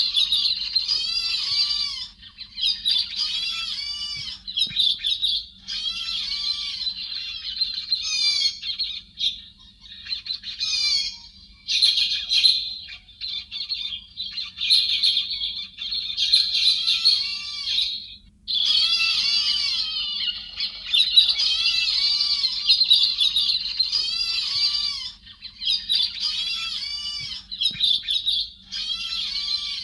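Héc xoan birds calling: dense runs of harsh, arched chattering notes in phrases a few seconds long, broken by short pauses.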